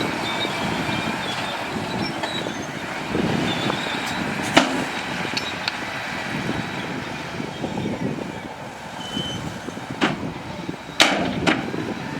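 Heavy earthmoving machinery at work: a steady engine rumble with faint metallic squeals and several sharp knocks, the loudest near the end.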